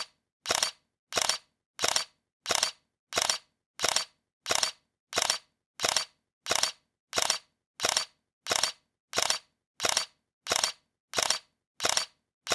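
A short, sharp crack repeated at a perfectly even pace, about three every two seconds, with dead silence between: an edited-in sound effect looped over and over.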